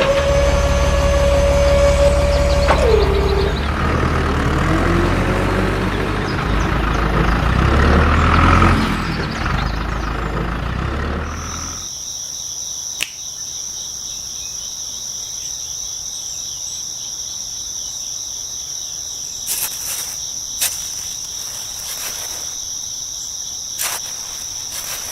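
A truck engine running with a held tone near the start that drops in pitch, stopping abruptly about twelve seconds in. Steady high cricket chirring follows.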